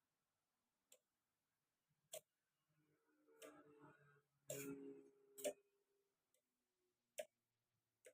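Sharp clicks, about eight at irregular spacing, from a railway signal light control being switched between aspects. A faint low hum runs for about three seconds in the middle, where the clicks are loudest.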